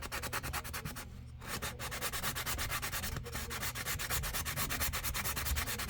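A small wooden fishing lure being sanded smooth by hand, with quick back-and-forth scratching strokes several times a second and a brief pause about a second in.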